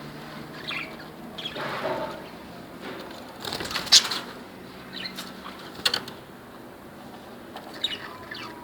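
Pet budgerigars chirping in short calls, with bursts of wing flapping and rustling; the loudest burst comes about four seconds in, with a few sharp clicks later.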